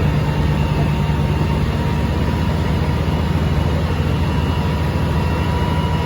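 Heavy diesel road-construction machinery running steadily: a deep, even engine drone with a faint high steady whine above it.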